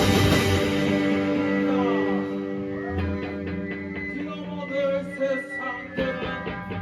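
Live rock band on electric guitars: a loud, dense wash of distorted sound fades away over the first two seconds, then a guitar plays clean, ringing picked notes.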